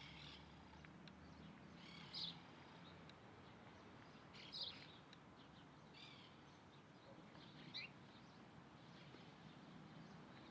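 Short bird calls, about five of them, spaced a second or two apart, over a faint steady background.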